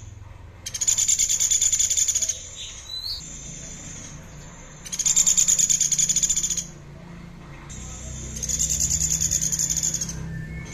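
A songbird repeating a rapid, high trill three times, each phrase about a second and a half long, with pauses between.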